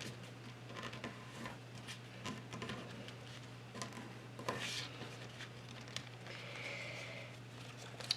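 Faint rustling, crinkling and light scrapes of a sheet of paper being folded in half and creased by hand, over a low steady hum.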